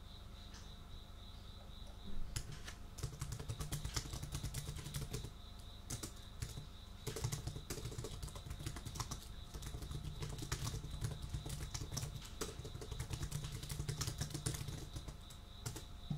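Typing on a computer keyboard: fast, irregular key clicks that start about two seconds in and go on with a short pause partway through. Under it a steady high cricket chirring.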